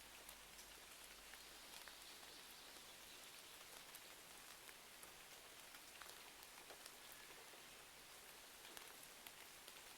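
Faint, steady rain: an even hiss dotted with scattered small ticks and crackles.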